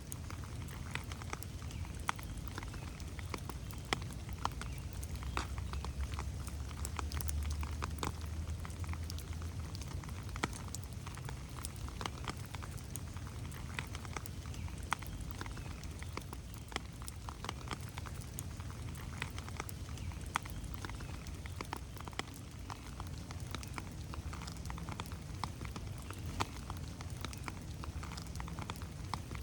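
Steady rain falling in a forest, with many irregular drops pattering and dripping on leaves and the ground. A low rumble under it swells for a few seconds near the start.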